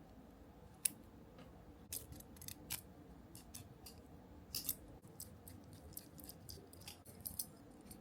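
A series of sharp, irregular snips and clicks from a small hand cutting tool working on kit parts, about a dozen in all, the loudest about a second in and just past the middle.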